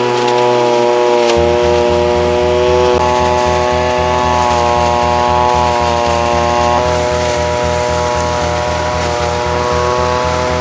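Garland STREAM 550G petrol blower/vacuum's two-stroke engine running steadily at high speed, over background music with a steady beat.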